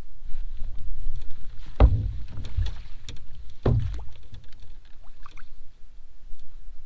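Movement sounds from a fishing kayak on the water: a steady low rumble with two sharp knocks about two seconds apart, and a few lighter ticks.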